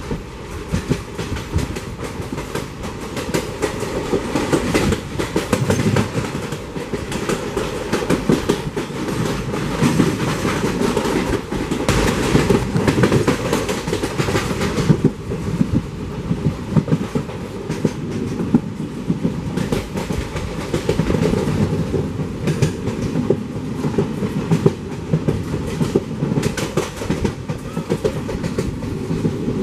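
Express passenger train running at speed, heard from an open coach doorway: continuous rumble and rattle of the coach's wheels on the rails with rapid clickety-clack. It grows louder and harsher from about ten seconds in and eases off again around fifteen seconds.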